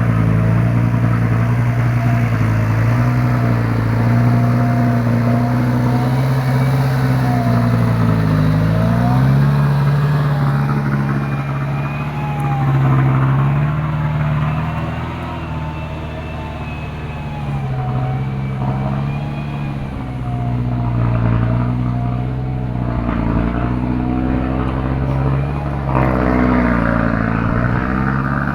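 Mitsubishi Canter truck's diesel engine labouring up a steep rocky climb. Its note drops and picks up again a few times as the load and gears change.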